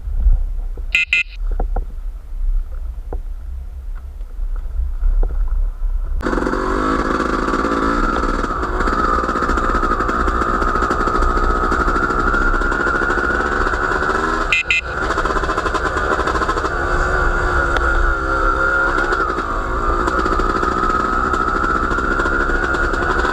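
Low wind rumble on the microphone, then about six seconds in a small engine starts running loudly and steadily, its pitch holding nearly constant with slight rises and dips.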